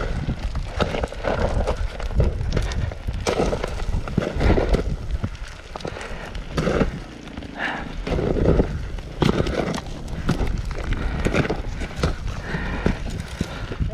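Footsteps scuffing and crunching on loose rock and dirt, an irregular run of crunches and knocks, over a low rumble of handling noise on the microphone.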